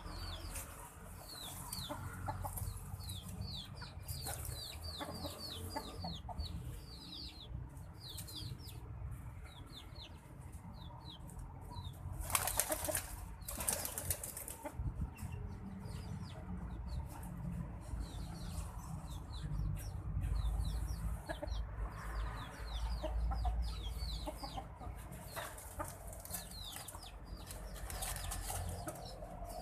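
White-breasted waterhen bathing, flapping and shaking its wings in the water, with two loud splashing bursts near the middle. A steady run of short, quick high chirps goes on throughout.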